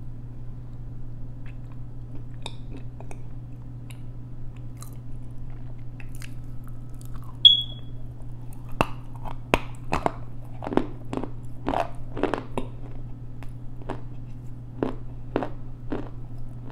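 Close-miked chewing and crunching of a mouthful of edible clay: a few faint mouth clicks at first, then a run of sharp crunches from about nine seconds in to near the end. A brief high-pitched chirp comes just before the crunches begin, over a steady low hum.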